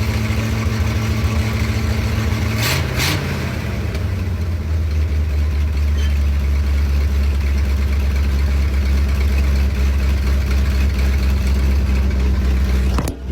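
Chevrolet C60 dump truck's engine running steadily after sitting four to five years. About three seconds in there are two short knocks and the engine note drops to a lower, steady speed.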